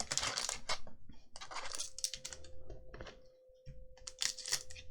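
Magic: The Gathering cards being handled and flicked through, in three short clusters of clicking and rustling. A faint steady hum runs underneath.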